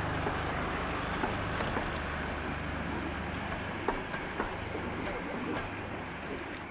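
Railway passenger coaches rolling past on the track: a steady rumble with occasional sharp wheel clicks, easing off towards the end as the train draws away.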